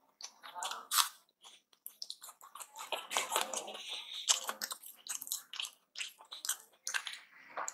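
Close-up chewing of aloo paratha: irregular wet mouth smacks and short clicks as the flatbread is bitten and chewed.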